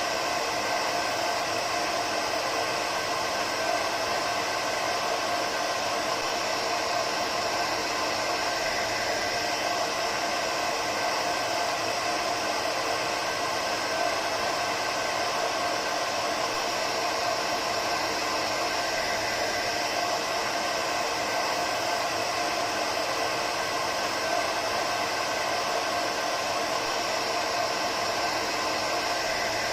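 Hair dryer running steadily: an even rush of blown air with a faint whine of the motor held at one pitch.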